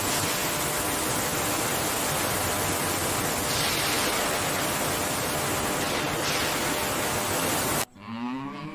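A steady, loud hiss of noise that cuts off suddenly near the end, when a cow starts a long, falling moo.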